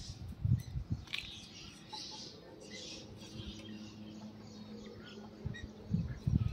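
Faint bird chirps outdoors, with a few strong low bumps on the microphone about half a second and a second in. A steady low hum runs through the middle.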